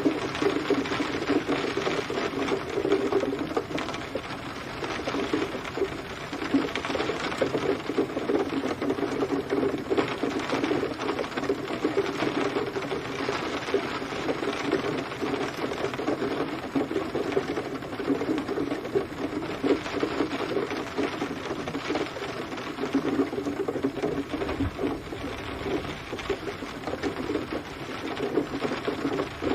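Rain falling steadily, a dense pattering of drops hitting a surface.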